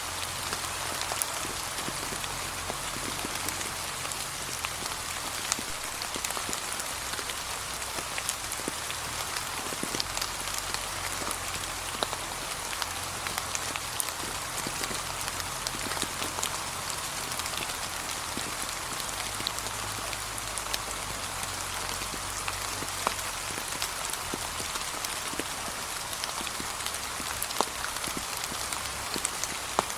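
Gentle steady rain falling on a path covered in fallen autumn leaves, with individual drops ticking sharply here and there over a constant hiss.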